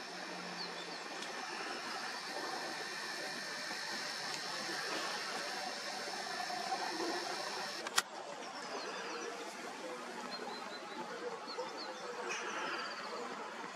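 Outdoor ambience with faint, scattered bird chirps over a steady background noise, and one sharp click about eight seconds in.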